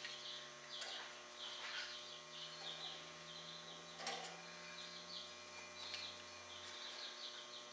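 Faint, rapid chirping like small birds, repeating irregularly over a low steady hum, with a sharp click about four seconds in.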